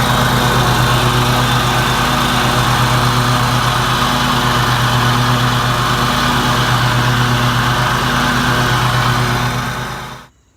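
Riding lawn tractor's engine running steadily after a repair, a continuous even hum that stops near the end.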